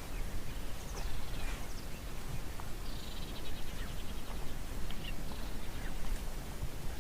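Forest ambience of birds calling: scattered short chirps and, about three seconds in, a quick trill lasting a second or so, over a steady low rumble.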